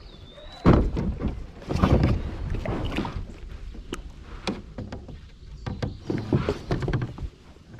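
Kayak paddle strokes through water: several uneven splashing pulls with water sloshing in between.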